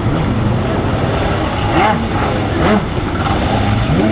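Jet ski engine running under a steady, loud rush of noise, with the revs rising and falling a few times.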